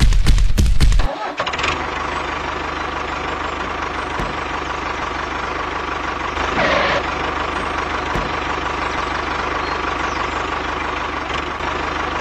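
Music with a heavy beat cuts off about a second in, giving way to a small engine running steadily at an even speed.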